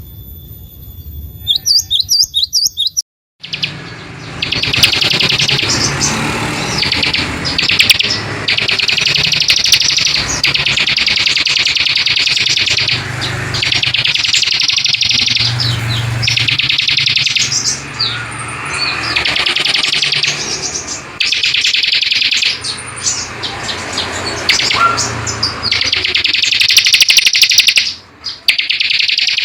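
Recorded songbird calls: a high steady whistle and a quick run of falling chirps, a short break about three seconds in, then rapid buzzy trills in bursts of a second or two, one after another, over a low hum.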